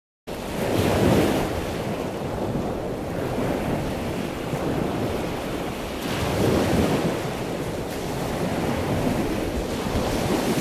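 Waves washing in: a steady rushing noise that swells about a second in and again after about six seconds.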